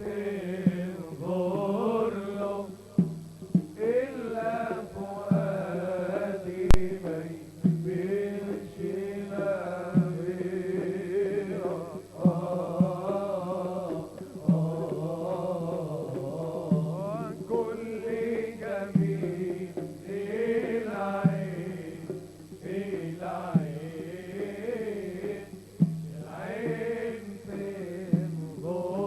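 A male singer performing an Arabic wedding song with musical accompaniment.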